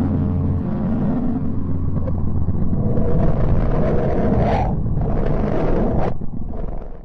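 Loud rumbling, roaring drone with a hissy upper layer, a space sonification presented as a planet's sound. It grows brighter partway through, then cuts off abruptly at the end.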